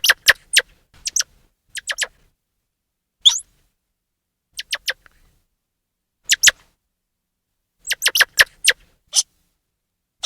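Grey squirrel chirping: short, sharp calls that drop in pitch, coming in quick runs of two to four with pauses between.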